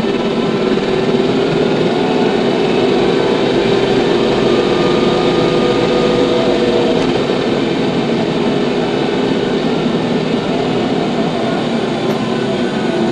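TYM T574 tractor's diesel engine running steadily at a constant speed.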